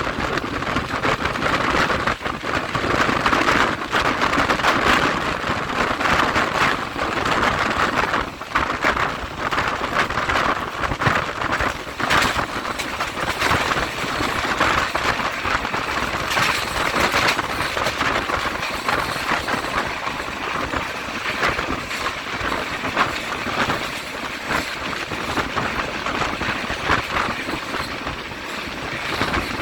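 Train running through a curve: steady noise of steel wheels on the rails, with frequent irregular clicks and clacks.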